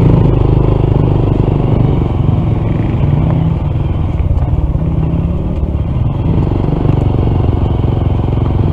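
Honda CT125's single-cylinder engine running steadily as the motorcycle rides off, with some clattering. The engine is damaged inside, later found to be a faulty piston and a misaligned valve.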